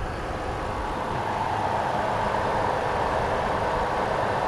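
Mitsubishi Triton ute's engine running steadily after its new alternator and battery were fitted, with everything running to perfection.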